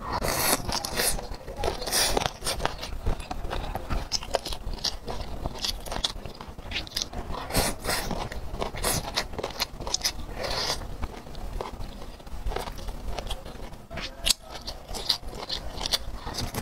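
Close-miked biting and chewing of spicy boneless chicken feet: wet, irregular mouth clicks and crunchy bites.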